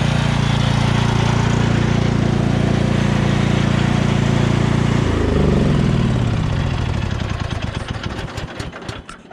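Cub Cadet XT1 riding lawn tractor engine idling steadily, then shut off about five seconds in, its pitch falling as it runs down to a stop.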